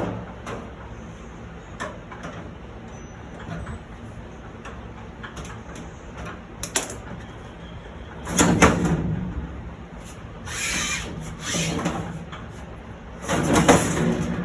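Handling noises from packaging being moved: a few sharp knocks, then four bursts of scraping and rustling, the last two seconds or so the loudest.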